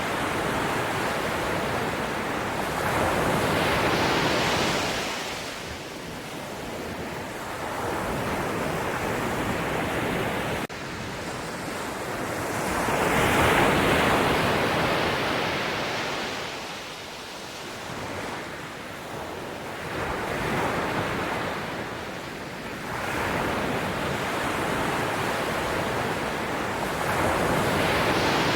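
Ocean waves breaking and washing back, the surf swelling and fading four times, about every seven or eight seconds.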